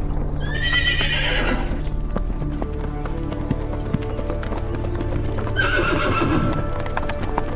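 Horse hooves clattering, with a horse whinnying twice, about a second in and again near six seconds, over background score music.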